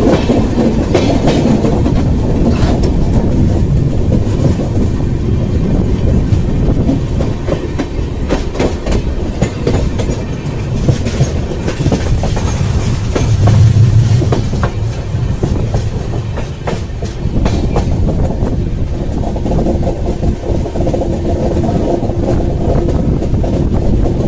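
A passenger train running steadily, heard from an open coach doorway: a continuous rumble with the wheels clattering over rail joints. The clicks come thickest around the middle, and a louder low rumble swells briefly just past halfway.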